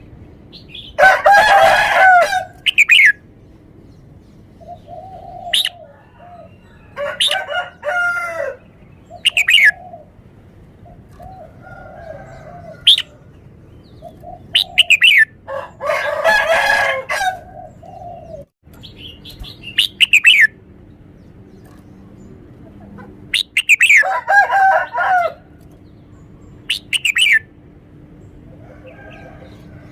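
Red-whiskered bulbul singing: short, clear, downslurred whistled phrases repeated every few seconds. Three longer, louder calls come about a second in, near the middle and about three-quarters through.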